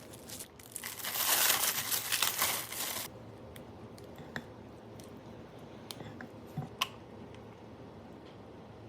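Crinkling and rustling of a crinkly wrapper or sheet being handled for about three seconds, then a few light clicks and taps.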